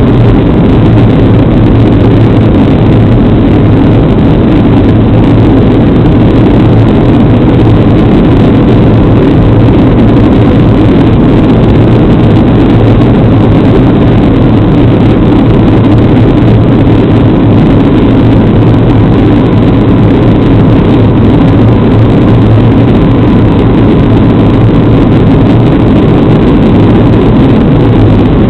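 Steady, loud cabin noise of a Boeing 737 in flight on its landing approach: the CFM56 turbofans and rushing air make an even roar with a low hum that stays unchanged throughout.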